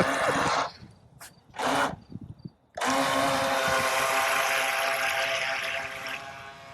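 Two brief noisy bursts, then a small motor starts suddenly about three seconds in and runs at a steady pitch before fading away near the end.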